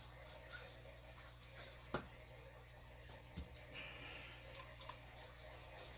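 Quiet room tone with a steady low hum, broken by two faint clicks about two seconds and three and a half seconds in.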